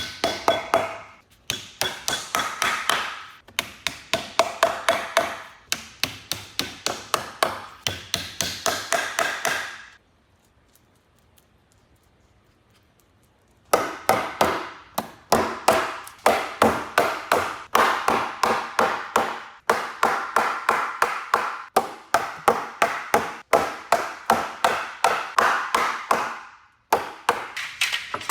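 Runs of quick, even hammer or mallet blows on wood and steel, about three a second, each with a short ringing tone, pausing for a few seconds in the middle.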